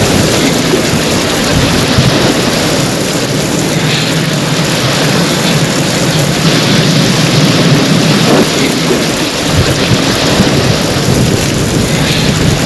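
Steady, loud downpour of rain with a low rumble of thunder underneath.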